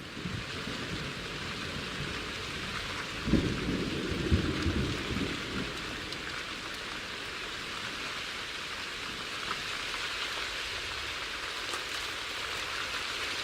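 Steady rain falling, with a low rumble of thunder from about three to five seconds in.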